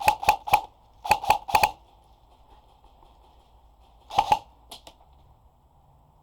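Airsoft guns firing in short quick strings of sharp snapping shots: about four in the first half second, four more a second in, then a couple more near the end.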